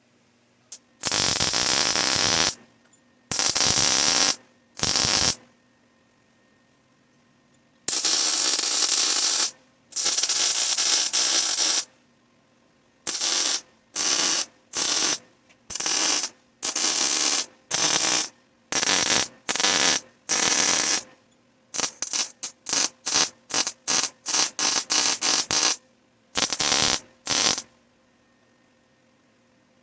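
Welder tack-welding header exhaust pipes: the arc runs in loud bursts, the first few lasting one to two seconds, then a quick string of many short tacks, each cutting off to near silence.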